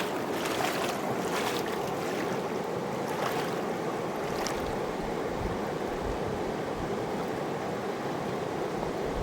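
Fast mountain river rushing steadily, with a few brief sharper sounds in the first half.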